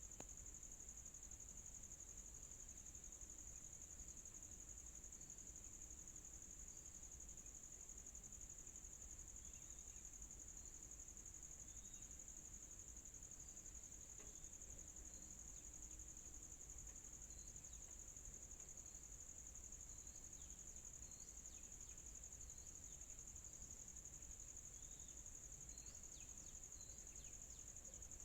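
Insects droning in a steady, high, continuous shrill, faint under low background noise, with scattered short bird chirps that grow more frequent near the end.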